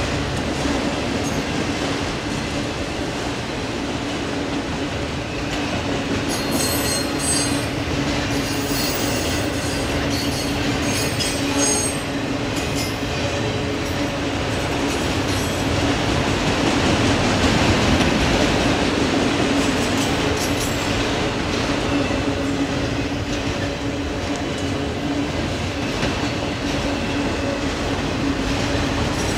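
Autorack freight cars rolling steadily past: steel wheels rumbling and clicking over the rail joints under a steady hum. Brief high-pitched wheel squeals come in the first half.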